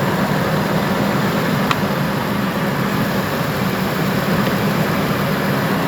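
An engine idling steadily, an even low hum with no change in speed, and one faint tick a little under two seconds in.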